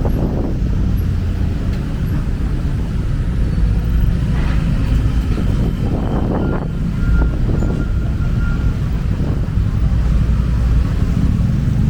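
Busy city road traffic: cars and other vehicles passing close by, with a steady low rumble and a few louder pass-bys in the middle.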